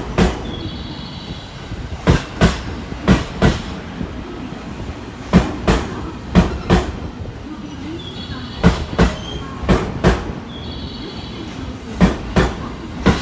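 Electric multiple-unit train (JR 225 series and 223-2000 series) rolling slowly over rail joints: wheel clacks in close pairs as each bogie's two axles cross, a group of four about every three seconds as each car passes, over a steady rumble with faint high tones.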